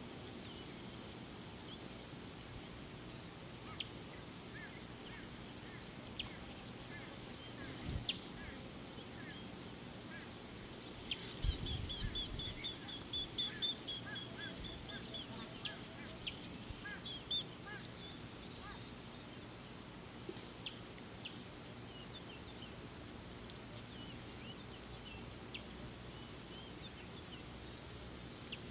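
Wild birds calling and chirping, busiest about a third of the way in with a quick run of high notes, then scattered calls. A low thump comes about eight seconds in and a longer low rumble about twelve seconds in.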